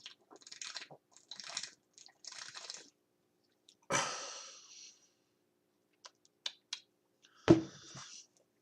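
A person sipping and slurping a drink from a cup in several short pulls, swallowing, with a louder breath out about four seconds in. A sharp knock near the end is the loudest sound.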